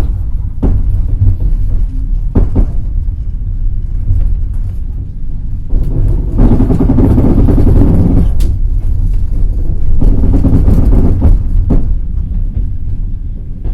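Passenger train running on the rails: a steady low rumble of the wheels, with a few sharp clacks of wheels over rail joints and two louder stretches of running noise in the middle.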